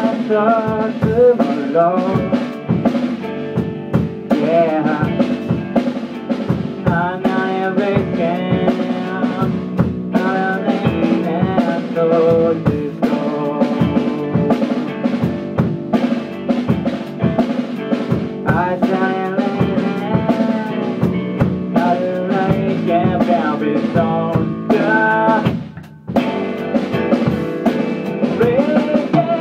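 A rock/blues band playing, with a drum kit keeping a steady beat and guitar. There is a brief break about 26 s in, then the band comes back in.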